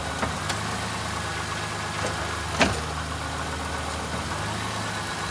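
1995 Toyota Camry engine idling steadily, with a few short clunks as the transmission is shifted between gears, the loudest about two and a half seconds in. The owner asks whether the noise comes from bad CV shaft joints or worn rubber mounts.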